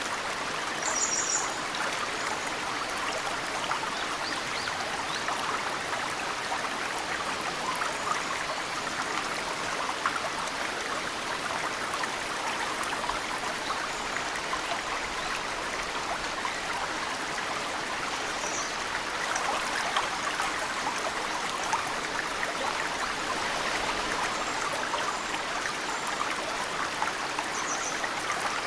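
Mountain stream flowing steadily, with the patter of snowmelt drips falling into the water. A small bird gives a brief high chirp three times, about a second in, around the middle and near the end.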